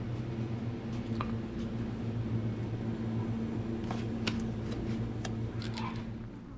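A steady low mechanical hum, like a fan or motor running, with a few faint clicks and taps.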